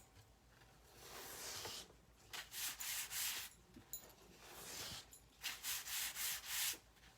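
Repeated rubbing strokes of a hand working over a plastic silk-screen stencil transfer, several swipes of about a second each with short pauses between them.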